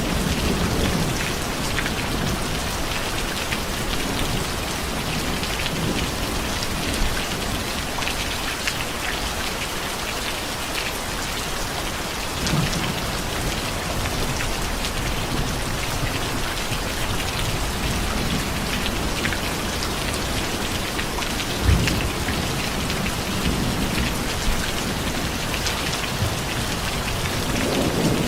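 Steady heavy rain pattering on surfaces, with low rumbles of thunder swelling now and then and one short sharp thunder crack about two-thirds of the way through.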